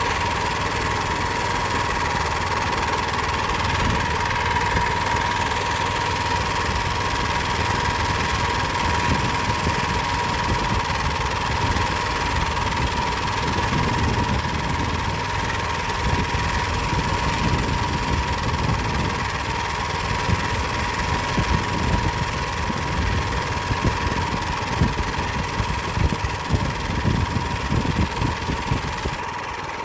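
Mini bike's Power Fist 79cc single-cylinder four-stroke engine running steadily, growing uneven in loudness in the last few seconds.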